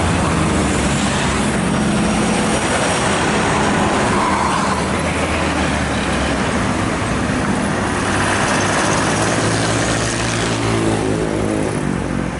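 Heavy road traffic passing close by: truck and bus engines with tyre and road noise, steady throughout. A deeper engine note stands out in the second half as a heavy vehicle goes past.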